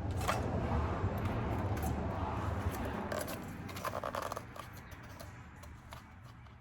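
Rustling and scraping as pressed tobacco crumble-cake pucks and their packing are handled and pulled apart. The noise is busiest for the first three seconds or so, with a short burst about four seconds in, then fades.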